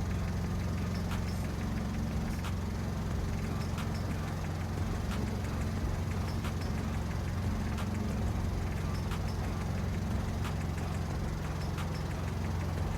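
Long-tail boat engine running steadily at cruising speed with a constant low drone.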